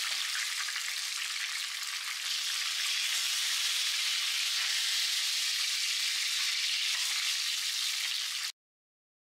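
Chicken wings shallow-frying in hot oil in a pan: a steady sizzle that cuts off abruptly about eight and a half seconds in.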